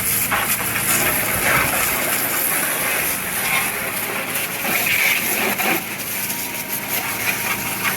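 Water spraying steadily against the truck as it is washed, a continuous hiss with a low hum underneath.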